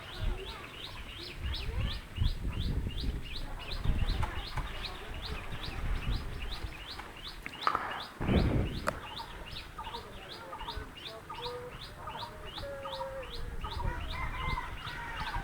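A bird calling a short falling note over and over, about three a second, with fainter whistles of other birds later on. Low rumbling noise runs underneath, and there is a sharp click about nine seconds in.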